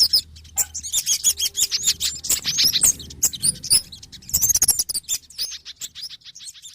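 Bird-lure recording of small birds calling noisily and agitatedly, a dense run of rapid high chirps and sweeping whistles mixing kemade, sogon and pijantung (spiderhunter) calls. The calls thin out and fade near the end.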